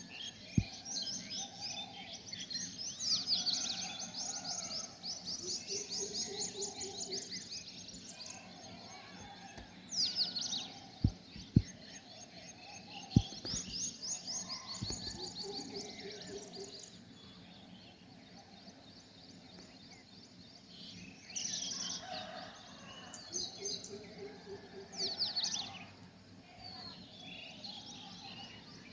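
Several small birds chirping and twittering in quick high runs of notes that come and go, with a few sharp clicks, four in all, the loudest about eleven to thirteen seconds in.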